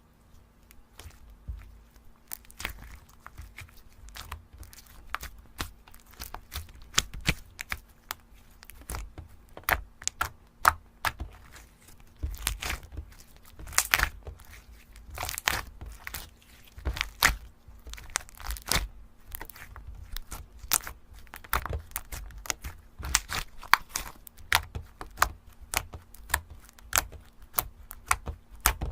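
Hands playing with slime: many irregular sticky crackles and pops as it is pressed, folded and stretched.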